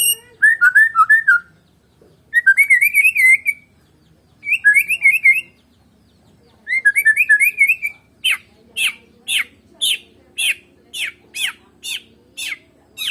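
White-rumped shama (Medan murai batu) singing: four short bursts of rapid warbling, then a run of sharp downward-sweeping notes, about two a second.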